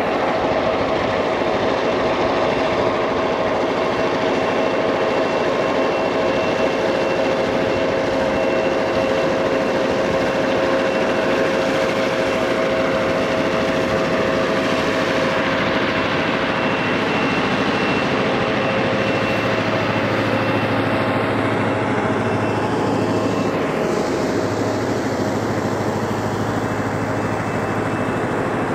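Heritage railroad train running, a steady, continuous running noise with a few steady tones in it; a low hum joins about two-thirds of the way through.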